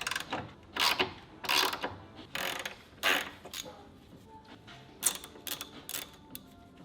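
Hand socket ratchet clicking in repeated short strokes while undoing a sway bar bracket bolt. The bursts come about every 0.7 s at first, then shorter and quicker near the end.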